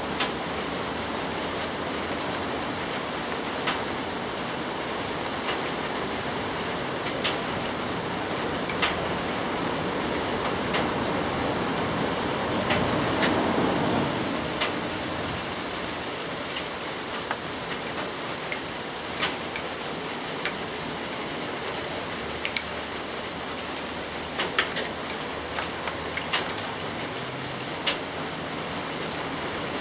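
Steady rain falling on bamboo grass and leaves: an even hiss with scattered sharp ticks of heavy drops hitting the leaves. The rain grows louder for a couple of seconds about halfway through.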